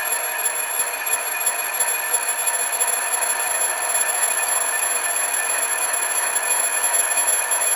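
Milling machine running and taking a cut with a brazed-insert cutter: a steady machining hiss with several constant high-pitched tones, unbroken throughout.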